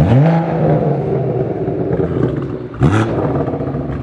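Tuned BMW M140i's turbocharged straight-six being revved twice, about three seconds apart. Each rev jumps sharply up, then the note holds and eases back down.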